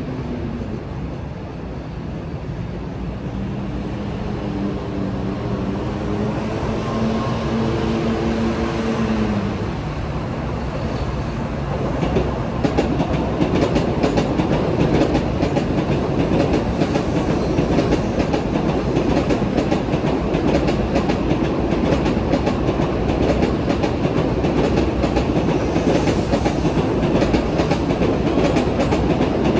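A freight train's container wagons roll past on steel rails. During the first ten seconds a steady whine steps up in pitch. From about twelve seconds in, an N700-series Shinkansen passes, adding a louder, steady rumble with rapid wheel clatter.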